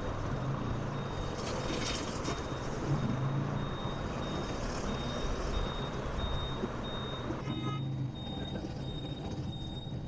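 Motorcycle engine running with steady road and traffic noise, and a high-pitched beep repeating evenly through most of it.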